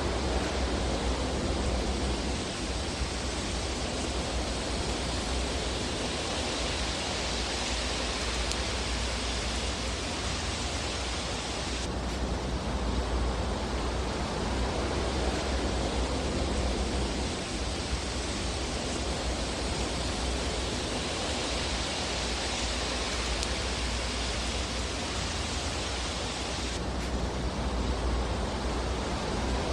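Fire burning in a fireplace: a steady rushing hiss over a deep rumble, with hardly any distinct crackles. The hiss changes abruptly about twelve seconds in and again near the end.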